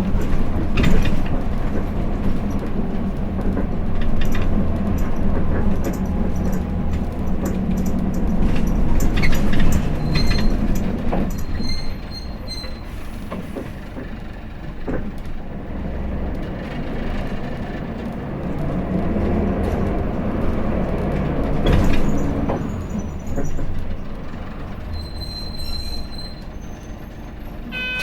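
Hino Blue Ribbon City city bus (KL-HU2PMEA) running, heard from inside the cabin: a steady low diesel engine hum with frequent rattles and clicks from the body and fittings. It is louder in the first half and eases off about twelve seconds in.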